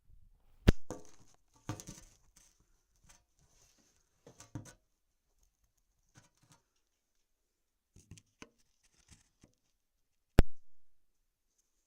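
Handling noises around a Craftsman lawnmower that is not running: a sharp knock under a second in and a louder one near the end, with scattered rustling and light clicks in between.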